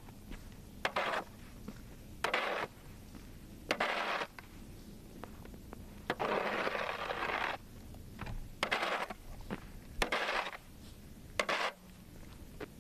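A snow shovel scraping snow off pavement in repeated strokes, each a short scrape, with sharp clinks of the blade between strokes.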